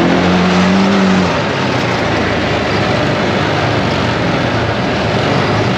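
ATV engine running while riding a trail, a steady pitched hum for about the first second, then lost in a dense, even rush of noise.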